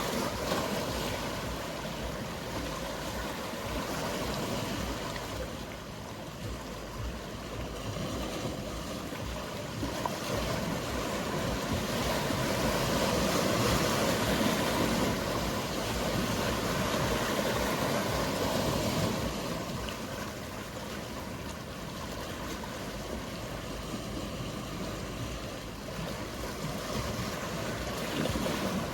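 Mediterranean sea waves washing and surging on the shore, a steady rush that swells louder for several seconds around the middle.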